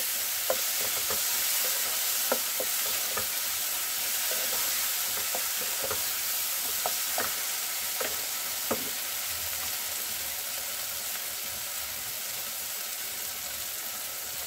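Chicken keema masala sizzling in oil in a nonstick kadhai: the masala has been fried until the oil separates. A spatula stirs and scrapes it, making scattered clicks against the pan for about the first nine seconds, then the steady sizzle goes on alone.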